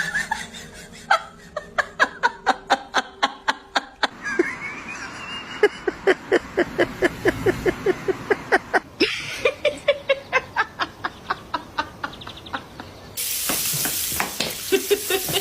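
A voice making rapid, rhythmic pulsed sounds, about four or five a second, much like laughter, in long runs. About thirteen seconds in, a steady rush of running water starts, as from a tap or shower.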